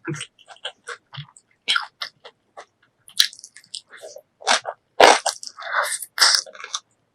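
Close-miked eating: crisp crunching and chewing in quick, irregular bites. About five seconds in come louder, longer wet mouth sounds.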